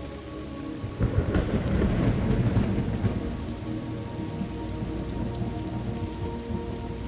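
Thunderstorm ambience: steady rain with a roll of thunder that breaks suddenly about a second in and rumbles on, slowly easing off.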